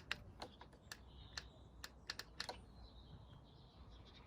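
A string of faint, irregular light clicks and taps, about a dozen, spaced unevenly.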